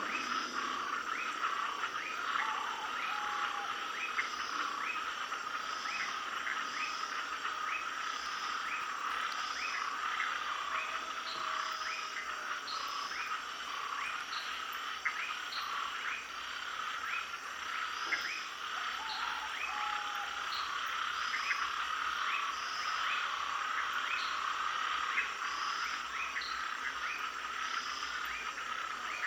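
Night chorus of many frogs calling together, with short rising chirps repeating about twice a second over a dense, steady din of calls.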